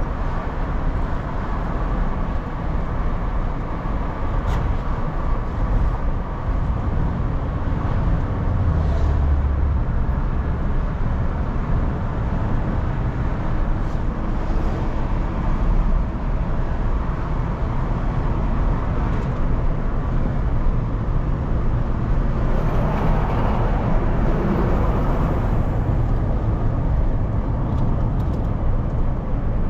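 Car interior road noise while driving: a steady low engine hum and tyre rumble, with a swell of louder rushing about three-quarters of the way through.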